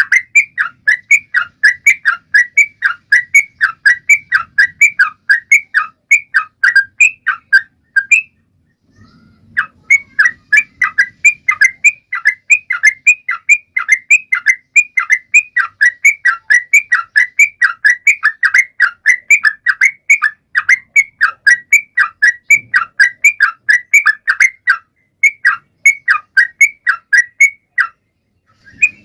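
Yellow-vented bulbul (trucukan) singing a fast run of short, loud chirping whistles, about three a second. It breaks off for about a second twice, once about eight seconds in and once near the end.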